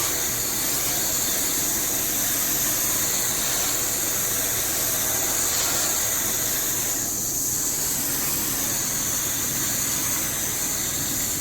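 Garden hose spraying water onto an outdoor AC condenser's coil fins: a steady hiss of water, briefly thinning about seven seconds in as the spray moves.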